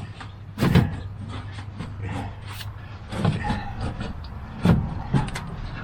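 Metal clunks and knocks as a furnace blower housing that has hung up is worked loose from the sheet-metal cabinet, four or five hard knocks over a low steady hum.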